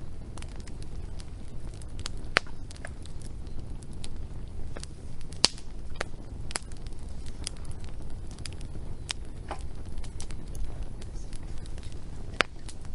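Wood fire crackling: irregular sharp pops and snaps, with sharper ones about two and a half seconds in, around five and a half seconds and near the end. Beneath them runs a steady low rumble from the burning fire.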